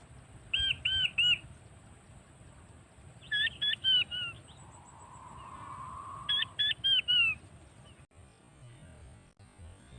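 King quail call: a phrase of three or four sharp, high whistles, repeated three times about three seconds apart.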